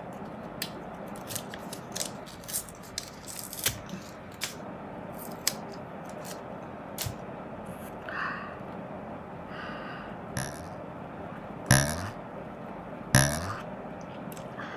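Hands handling a laptop charger and its plastic packaging: scattered small clicks, taps and scraping, with two louder sharp sounds near the end.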